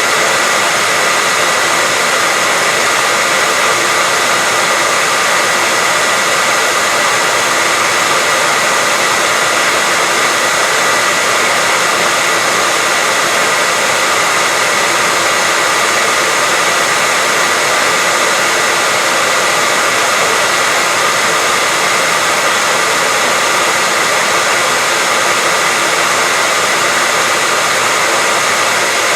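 Hair dryer running steadily: an even rushing hiss with a steady high whine on top.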